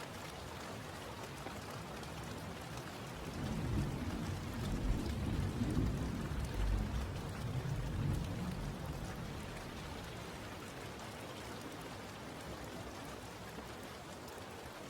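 Steady rain falling, with a low rolling rumble of thunder that swells about three seconds in and fades by about nine seconds.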